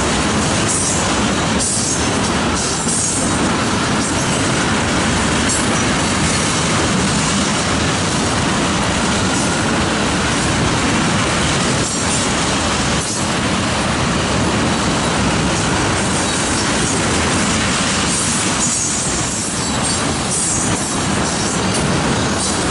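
Freight train of tank cars rolling steadily past: a continuous loud rumble and rattle of steel wheels on the rails, with a few sharp clacks along the way.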